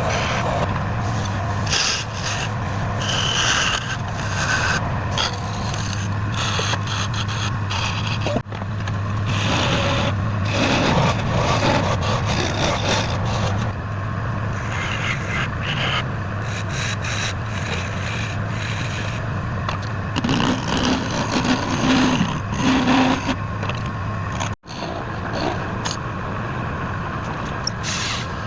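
A wood lathe running with a steady motor hum while a turning tool scrapes and cuts the spinning wood in uneven rasping surges. The sound cuts out for an instant about three-quarters of the way through.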